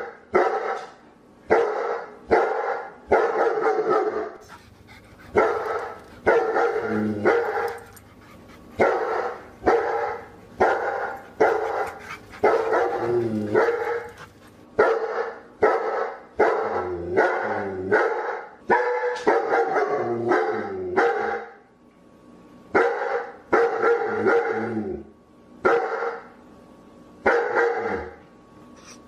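A dog barking over and over, about one to two barks a second, with a few short pauses between runs of barks.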